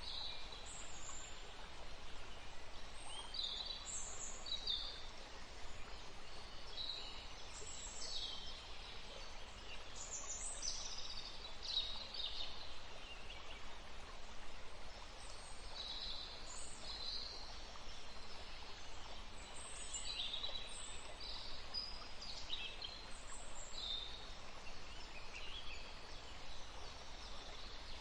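Several small birds chirping, with short high calls overlapping one another throughout, over a steady background hiss.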